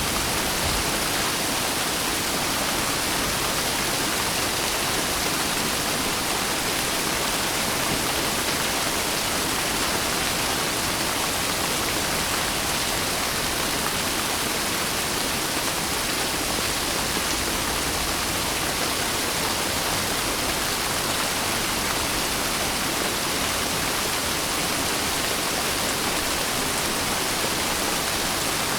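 Steady rain, a dense, even hiss with no separate drops, thunder or changes in level.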